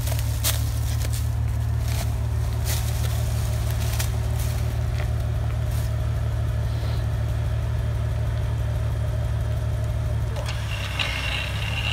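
Jeep Wrangler's engine idling steadily, with a few sharp clicks and crackles over the first few seconds.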